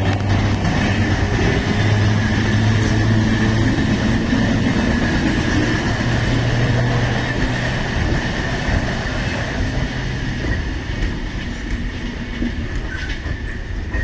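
Electric multiple unit train running, with steady loud rail noise, a low hum and a steady high whine.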